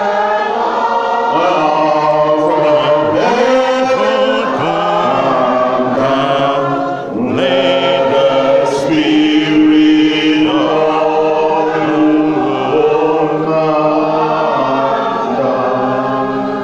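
A group of voices singing a hymn to Mary, in long held notes, fading out near the end.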